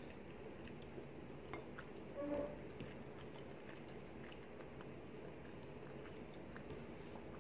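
Close-up chewing of a mouthful of rice and tuna curry, with small wet mouth clicks, and a short pitched sound a little over two seconds in.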